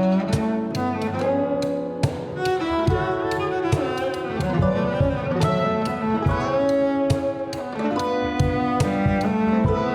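Live acoustic band music, instrumental: a cello bowing held melody notes over plucked guitar and mandolin, with sharp percussive hits keeping a steady beat.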